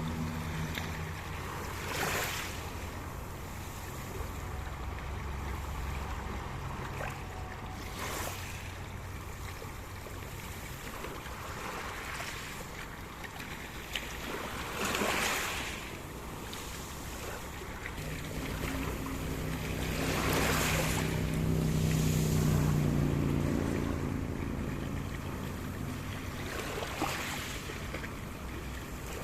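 Sea surf: waves breaking and washing in every few seconds over a steady hiss of water and wind. A low hum swells about two-thirds of the way through, then fades.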